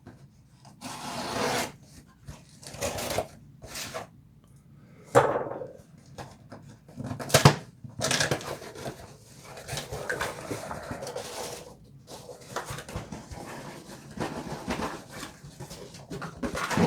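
A small cardboard shipping box being opened by hand: irregular rustling, scraping and tearing of cardboard and packing, with a few sharp knocks, the sharpest about seven and a half seconds in.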